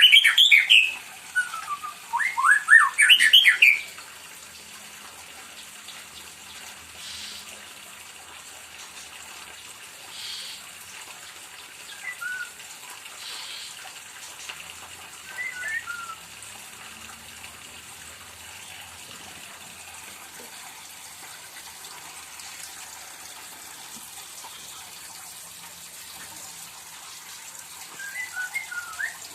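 White-rumped shama (murai batu) singing loud, rapid phrases of rising whistles for the first few seconds, then only a few short chirps over a faint steady hiss.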